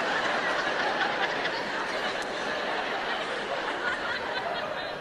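Audience laughing after a punchline, slowly dying down toward the end.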